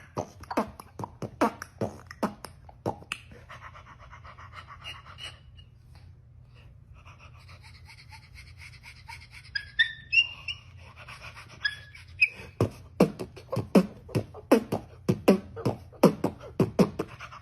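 An animal snorting or sniffing in quick short puffs, about three a second. The puffs fade in the middle, where a few brief high chirps are heard, then come back near the end.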